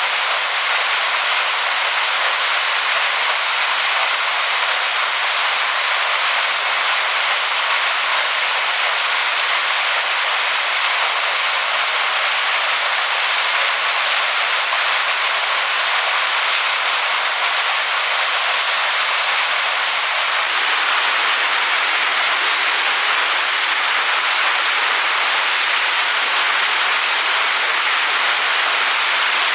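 Waterfall falling onto rocks: a steady, even hiss of rushing water, with most of its sound high and little low rumble.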